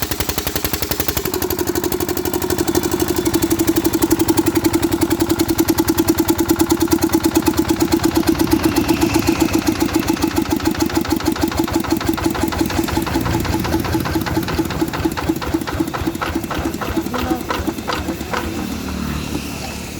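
14 hp water-cooled engine running with a fast, even train of firing beats. About halfway through, the beats slow and the sound gets quieter, as if the engine is dropping its speed.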